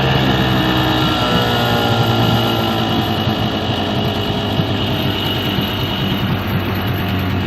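Pontoon boat's outboard motor idling steadily just after being pull-started, following a week unused.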